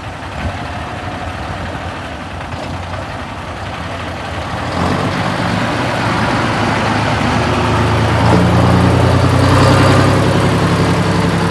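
Scammell Crusader truck's diesel engine idling, then revving up about five seconds in and running harder under load as the truck is driven off, loudest near the end.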